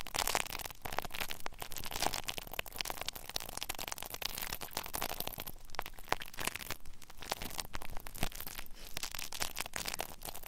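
Close-miked ASMR rubbing sounds: dense, fine crackling and scratchy rustling, as from ear rubbing on a microphone.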